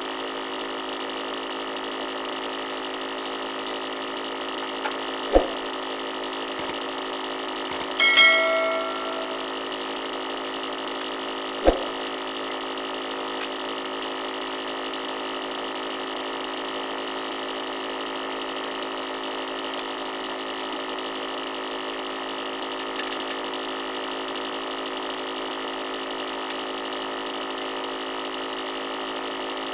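Steady hum of running machinery with several fixed tones. It is broken by two sharp knocks and, about eight seconds in, a metallic clang that rings briefly.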